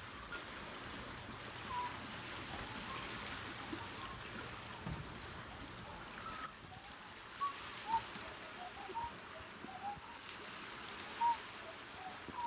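Faint outdoor ambience: a steady soft hiss with scattered short bird chirps, more of them in the second half.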